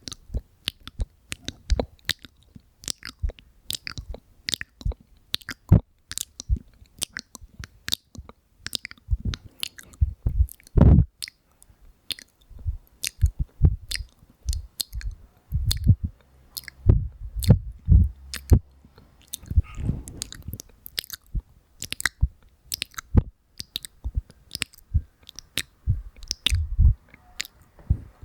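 Close-miked ASMR mouth sounds: a dense, irregular run of sharp wet clicks and smacks, several a second, with a few louder, deeper pops among them.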